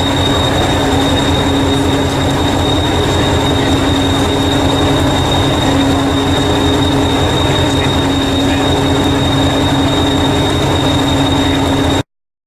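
Miniature electric locomotive and its train running on the track: a steady high whine and hum over low wheel rumble. It cuts off suddenly near the end.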